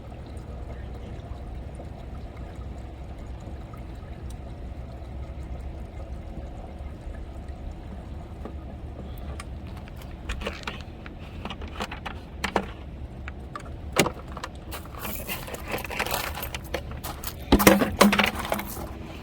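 Windshield washer fluid poured into a van's washer reservoir, a steady faint pour, then from about ten seconds in light clicks, knocks and a rattle as the container and filler cap are handled, loudest near the end.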